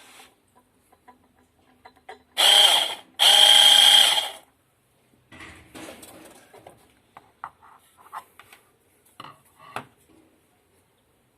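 Vitek VT-1465 blender motor switched on in two short bursts, the first about half a second and the second just over a second, each a loud, steady high-pitched whine: a test run of the repaired blender. Light clicks and handling knocks follow.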